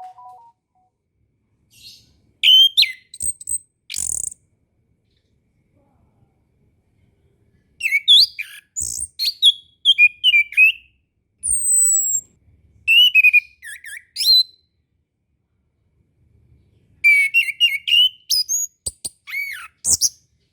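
Chestnut-capped thrush singing: four bursts of quick, high whistled notes and trills, each one to three seconds long, with silent pauses between them.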